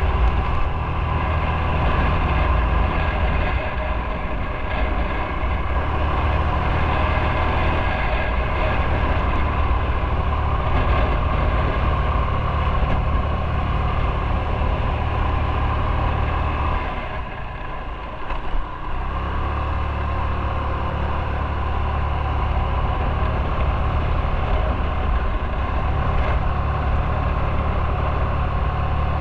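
Motorcycle engine running steadily under way. Its low note drops away for about two seconds a little past halfway, then comes back.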